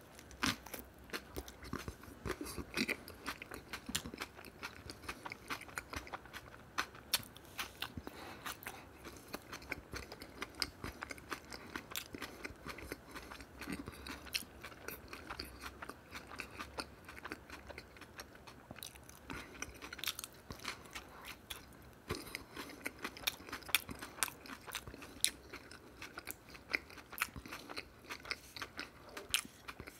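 A man biting into a tortilla wrap and chewing it, with many crisp, irregular crunches throughout.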